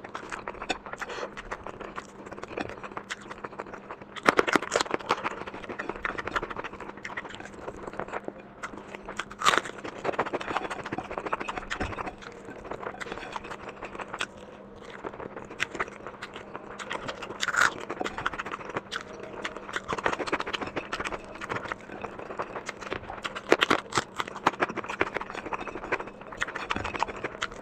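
Close-miked eating sounds: chewing and crunching of food with scraping against a plate, in irregular bursts with sharper clicks at times, over a faint steady hum.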